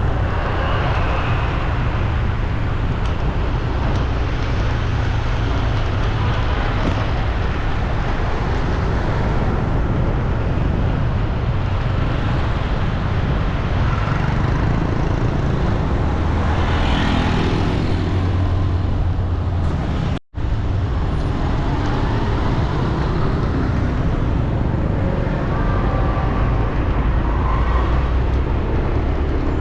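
Steady city road traffic, with vehicles running and passing in a continuous low rumble. The sound drops out for an instant about two-thirds of the way through.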